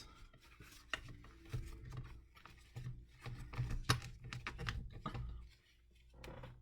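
Craft supplies being handled on a tabletop: a run of irregular small taps, clicks and paper rustles, with the sharpest click about four seconds in, thinning out near the end.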